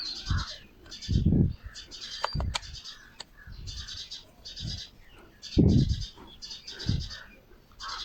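A bird chirping over and over, short high bursts about every half second to second. Several low thuds break in, the loudest about a second and a half and five and a half seconds in, with a few sharp clicks a little after two seconds.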